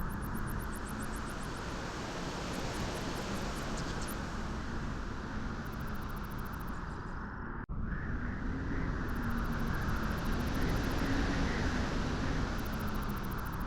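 Steady rush of wind at a beach, with a low wavering hum beneath it. It cuts out for an instant a little past halfway, then carries on.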